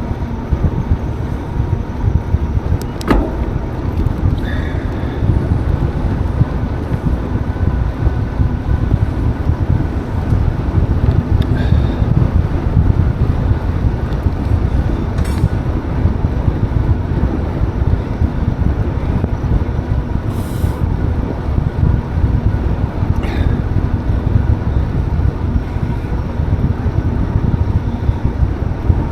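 Steady wind rumble and buffeting on the microphone of a moving bicycle, with a few brief high chirps.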